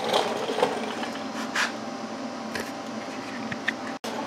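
Metal parts being handled while test-fitting: a few scattered light knocks and clinks over a steady hiss. The sound cuts out for an instant near the end.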